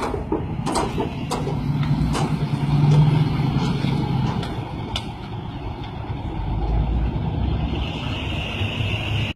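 Heavy truck engine running with a steady low rumble that swells about two to three seconds in, broken by several sharp knocks or clatters in the first half.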